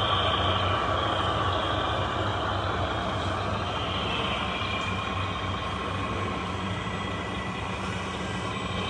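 Radio-controlled model construction trucks running: a steady low hum with whining motor and gear tones above it, easing off slightly as it goes.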